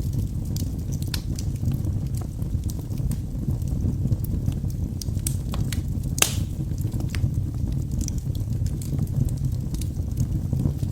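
Wood fire burning in a fireplace: a steady low rumble of flames with scattered crackles and pops of the burning logs, the loudest pop about six seconds in.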